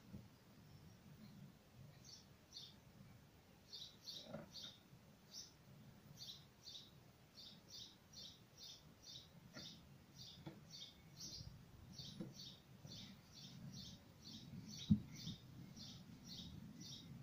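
Small birds chirping faintly in quick runs of short, high notes, with one sharp knock near the end.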